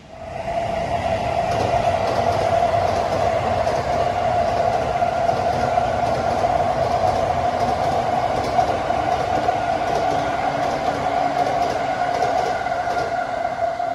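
Green-and-orange striped JR commuter electric train passing at speed, a steady rumble of wheels on track with a high whine held throughout. It starts suddenly just after the opening.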